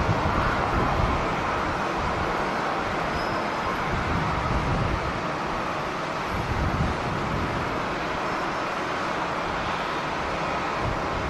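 Steady roar of jet airliner engines, with gusts of strong wind buffeting the microphone as uneven low rumbles.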